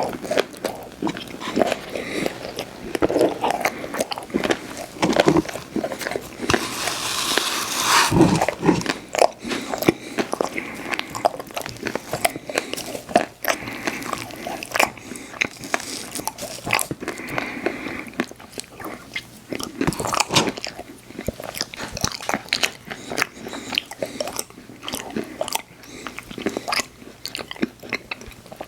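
Close-miked eating: a person biting and chewing ice cream treats, with many short clicks throughout and a louder, longer noisy stretch about seven seconds in.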